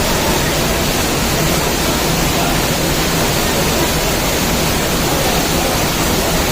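Steady rush of the canyon's mountain stream and waterfalls, loud and unbroken.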